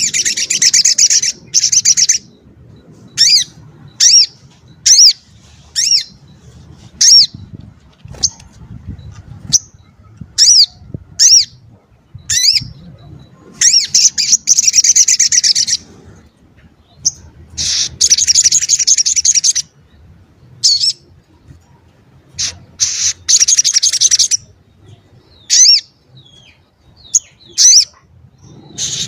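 Sogok ontong (sogon ontong), a small songbird, singing: loud, fast, high-pitched trills of about two seconds each, four times, with short sharp single notes in between.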